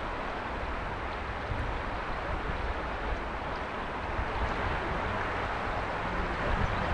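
Mountain river flowing: a steady rush of water with a deep rumble underneath.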